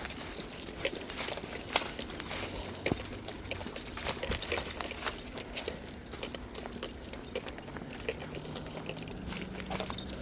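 Footsteps along a dirt and gravel trail, an irregular run of small crunches and clicks, with light metallic jingling mixed in.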